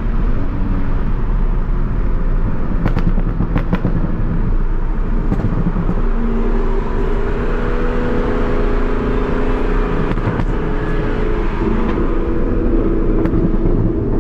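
Tuned MK5 Toyota Supra's turbocharged B58 inline-six at a steady cruise under road rumble, settling into an even drone about six seconds in. A few short clicks come between about three and five seconds in.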